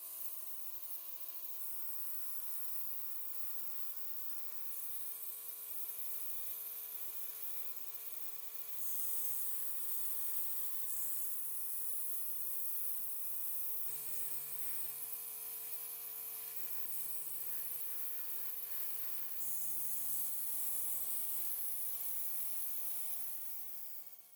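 Small high-speed electric motor running steadily with a whine and hiss, the kind heard from a handheld rotary tool or similar motorised hobby tool. The pitch and level jump abruptly several times.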